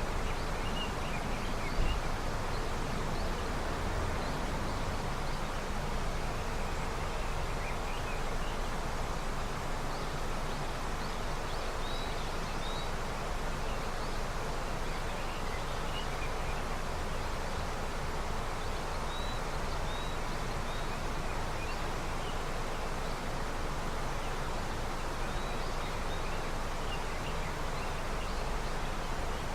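River running with snowmelt water, a steady rushing flow, with small birds chirping here and there above it. A single brief thump sounds about two seconds in.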